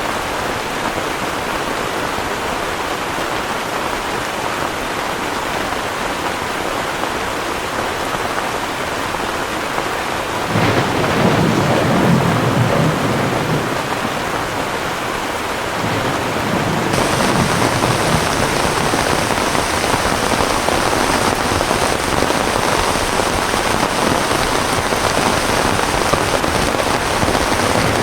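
Heavy rain falling steadily. About ten seconds in, a roll of thunder rumbles for several seconds, and after it the rain gets louder and hissier.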